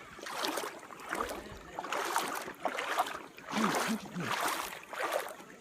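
Shallow creek water splashing and sloshing close by, in surges about once a second, as someone wades through it.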